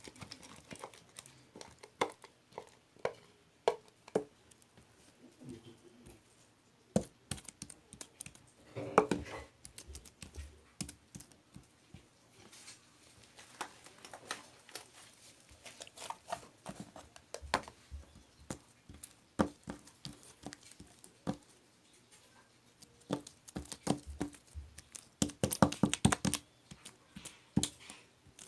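Small objects being handled close to the microphone: scattered taps and clicks with some crinkling, a louder rustle about nine seconds in and a quick run of clicks near the end.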